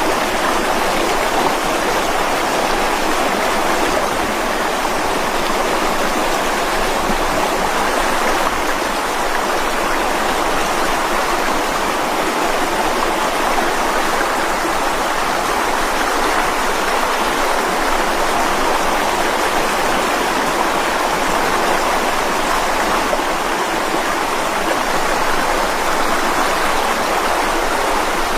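Mountain stream rushing steadily over rocks, a constant splashing flow with no breaks.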